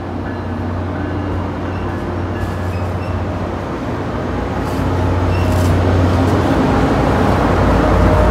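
Diesel-hauled passenger train at the platform: a steady low engine drone under rail running noise that grows louder about five seconds in as the train comes closer.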